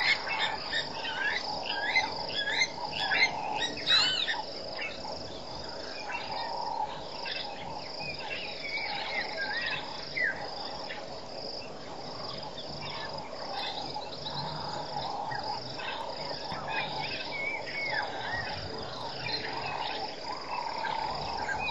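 Birds calling with many short whistled and chattering notes, busiest in the first few seconds, over a steady drone of crickets and other insects.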